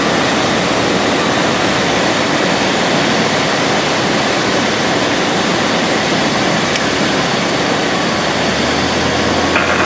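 Light aircraft's engine and propeller running steadily in flight, heard from inside the cabin as a loud, even noise mixed with rushing air. A low steady hum joins about eight seconds in.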